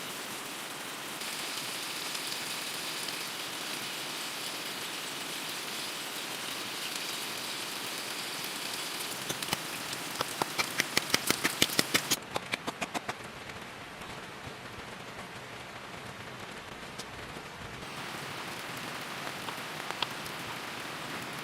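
Steady rain falling. About halfway through comes a quick run of sharp taps, several a second, for roughly three seconds, and then the rain turns abruptly quieter.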